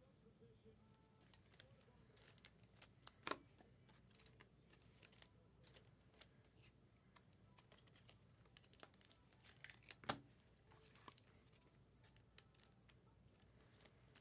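Faint, scattered crinkling and light clicks of trading-card packs and cards being handled and opened, with two louder snaps about three seconds in and about ten seconds in.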